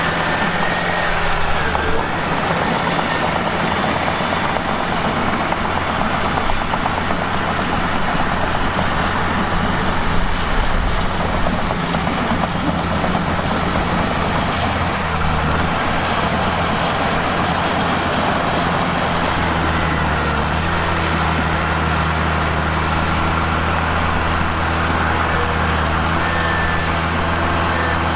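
Mitsubishi bulldozer's diesel engine running steadily under load over a dense clattering noise. The engine note shifts a few times, notably about two seconds in and again near twenty seconds.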